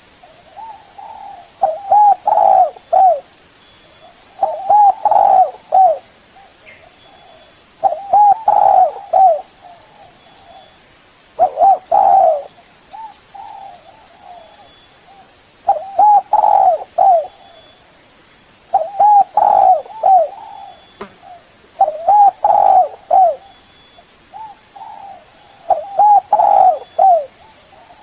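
Spotted dove cooing: a loud phrase of several quick coos about every three to four seconds, with fainter coos between the phrases.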